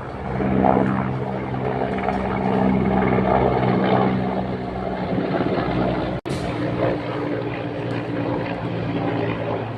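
Aeroplane engine running overhead: a steady, deep engine hum with a rushing noise. There is a momentary break about six seconds in.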